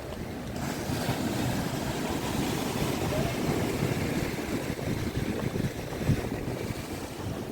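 Monsoon sea surf breaking and washing in, mixed with strong wind buffeting the microphone. A wave surges in about half a second in, and the churning carries on.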